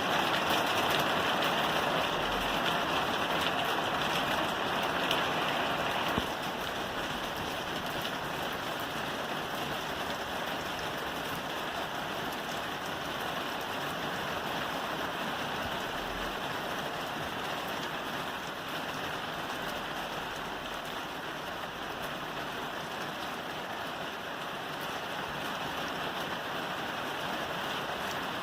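Steady rain falling on a roof, a dense, even patter. About six seconds in it suddenly gets slightly quieter, then carries on unchanged.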